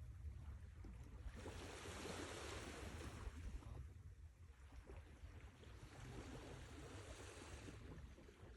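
Sea waves washing onto the shore: a surge of surf hiss builds about a second and a half in and another around six seconds, over a steady low rumble of the sea.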